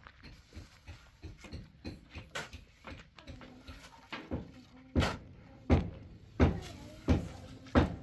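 A run of knocks: light, irregular taps at first, then from about five seconds in, heavy, evenly spaced strikes about one every 0.7 seconds.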